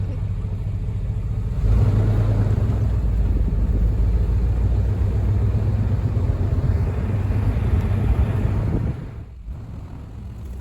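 Truck driving: a steady low rumble of engine and road noise that gets louder about two seconds in and drops off sharply near the end.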